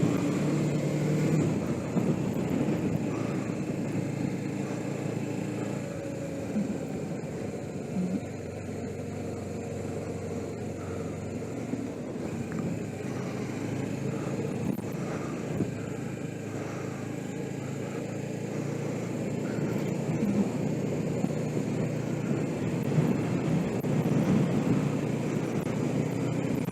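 Suzuki GS500E air-cooled parallel-twin engine running while the motorcycle is ridden, heard over wind noise at the helmet-mounted camera; the engine gets somewhat louder near the end.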